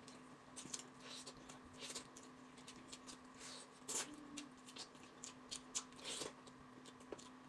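Faint eating sounds of someone chewing a chunk of braised pork: soft, scattered mouth clicks and wet chewing noises over a faint steady hum.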